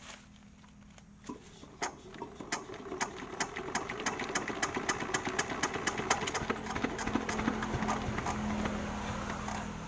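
Small single-cylinder dompeng diesel engine running with a steady low hum, joined about a second in by irregular metallic clicks and knocks that come faster and louder toward the end before easing off.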